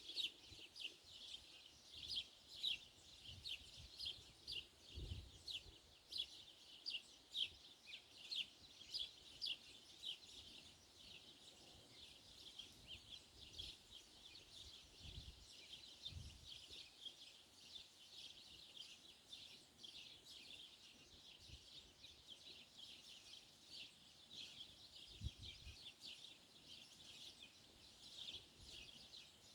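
Small birds chirping: a continuous run of short, high chirps, several a second, louder in the first few seconds. A few faint low thumps come and go.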